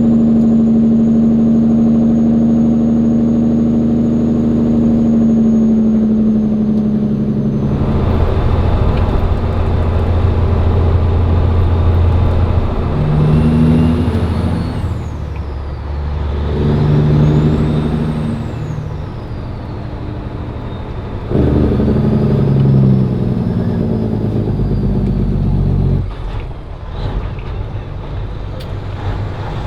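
Cat 3406E diesel in a Peterbilt running under load through an Aeroturbine muffler and 7-inch stacks, with a steady, slowly falling note for the first eight seconds. It changes abruptly, and in the second half the engine note steps up and down several times.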